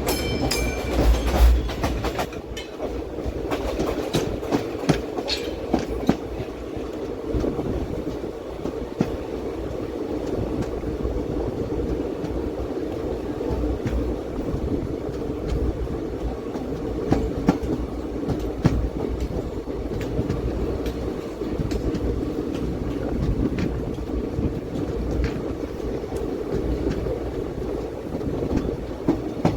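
Passenger coach of a moving express train heard from inside: a steady running rumble with wheels clicking over rail joints.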